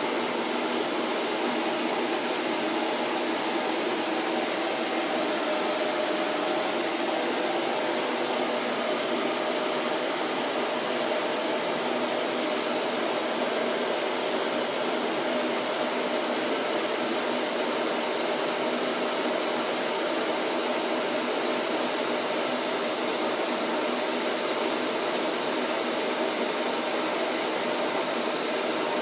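Vacuum cleaner motor running steadily, a constant whooshing hum with no change in pitch or level.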